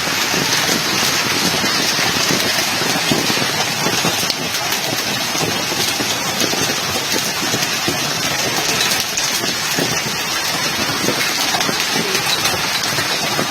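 Hailstones pelting down, a loud, dense, unbroken clatter of countless small impacts.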